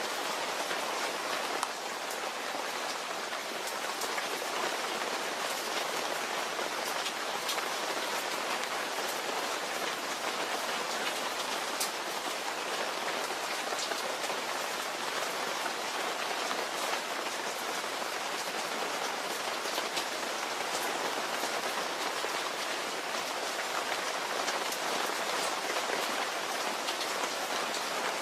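Steady rain falling: an even hiss flecked with many small, scattered drop ticks.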